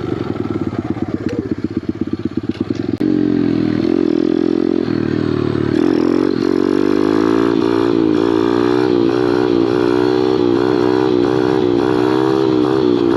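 Small Kawasaki pit bike engine chugging unevenly at low revs, then picking up about three seconds in and revving higher near six seconds. It then holds at high revs with the pitch wavering as the throttle is worked to keep the front wheel up in a wheelie.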